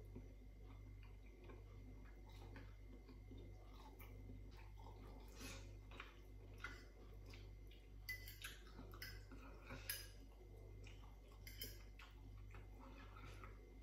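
Faint chewing of ramen noodles, with scattered soft clicks of a fork against a ceramic plate.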